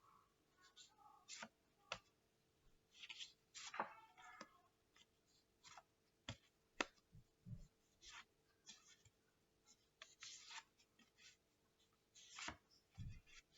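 Faint handling noise: scattered light clicks, taps and brief rustles, with a soft low thump about halfway through and another near the end.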